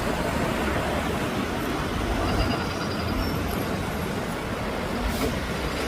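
Jet airliner's engines rumbling steadily as the plane flies past near the airport.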